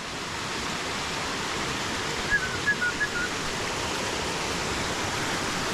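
Mountain creek water rushing steadily near a waterfall, with a few short, high chirps about two to three seconds in.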